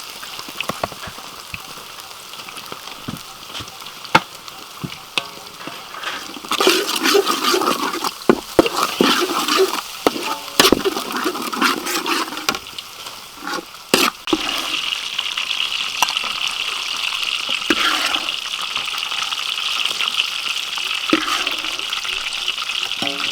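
Food sizzling in hot oil in a pan, with scattered clicks of a utensil against the pan. About six seconds in, the sound turns louder and more bubbling for several seconds, then settles into a steady sizzle for the second half.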